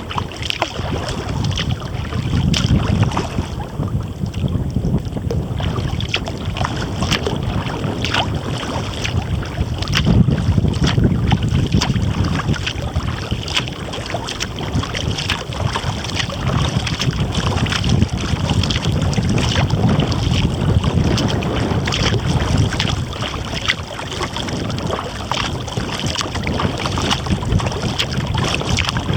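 Gusty wind rumbling on the microphone despite its furry windshield, rising and falling every few seconds. Through it come irregular small splashes and drips of water from a kayak being paddled.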